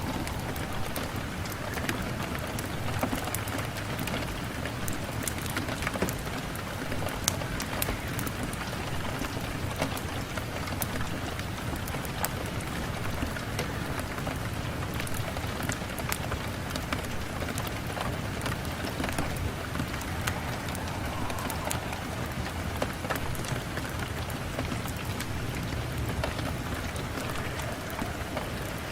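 Steady rain falling on a window glass: an even hiss with many scattered sharp ticks of drops striking.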